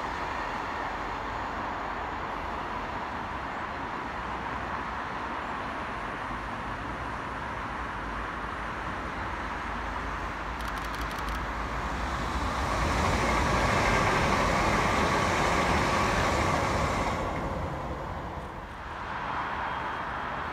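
Intercity Express Train approaching and passing at speed: a steady rumble that swells to its loudest and then cuts off sharply as the last coach goes by, about three seconds before the end.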